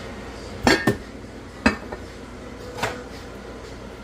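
Kitchenware being handled: four sharp clinks and knocks in under three seconds, two of them with a brief ring.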